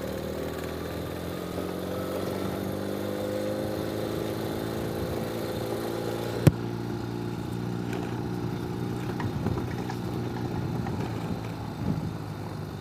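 Ural sidecar motorcycle's boxer-twin engine running steadily at low revs, its pitch drifting gently up and then back down. There is a single sharp click about halfway through.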